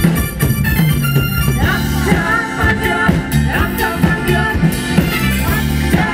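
Live cover band playing music with a steady beat, a melodic lead line bending in pitch over the band.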